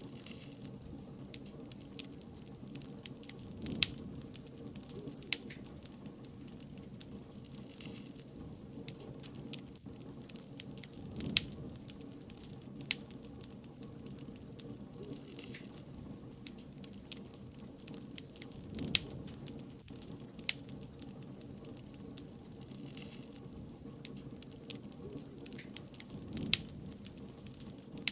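Wood bonfire burning, with irregular sharp crackles and pops over a low, steady flame sound, and a few louder swells as the fire flares.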